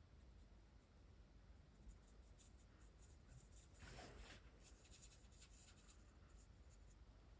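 Faint, irregular strokes of a Spectrum Noir Tri-Colour Aqua brush-tip marker rubbing across hot-press watercolour paper, with the longest stroke about four seconds in.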